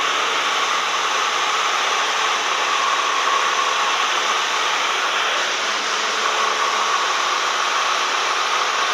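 Steady drone of a Cessna 172M's four-cylinder Lycoming engine and propeller, with rushing air, running at constant power with no change in pitch.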